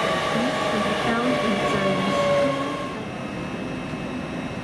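LNER Azuma electric train moving along the platform line, a steady rumble with a whining motor tone over it. About three seconds in, the sound drops suddenly to a quieter hum.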